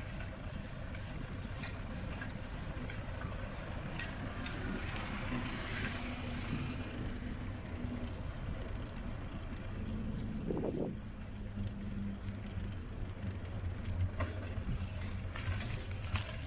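Steady rumble of wind and tyres while riding a bicycle, with the bike rattling and jingling over the road. A motor vehicle's engine hum comes through faintly around the middle.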